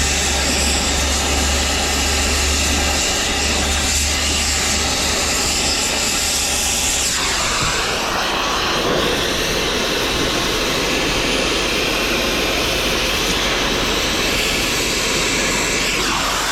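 Loud, steady machinery running, a noisy rush with a low hum; its sound changes about seven seconds in.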